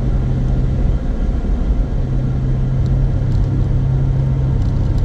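Interior noise of a car driving along: a steady road-and-engine rumble with a constant low drone.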